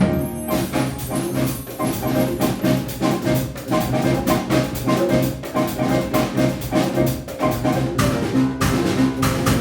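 Live Latin jazz band playing an up-tempo Brazilian groove: drum kit and hand percussion keep a busy, steady beat over bass and piano.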